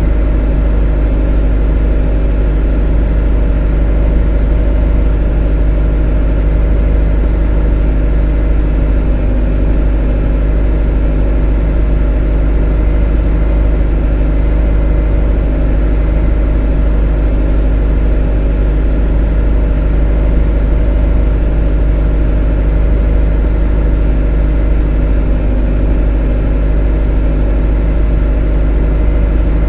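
Motor running steadily: an even, deep drone with a stack of steady hum tones that never changes in pitch or loudness.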